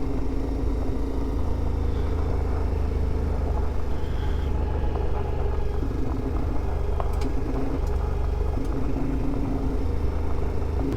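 Adventure motorcycle's engine (a CFMoto 450MT) running while riding, with a steady low rumble. Its pitch steps up and down a few times as the throttle changes.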